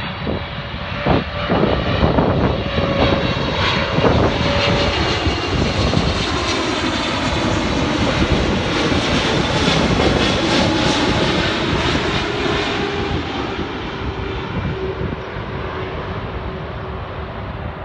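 Boeing 777-300ER's twin GE90-115B turbofans as the jet comes in to land and passes by: a steady jet roar that builds to its loudest about halfway through and then eases off, with a faint whine that sinks a little in pitch.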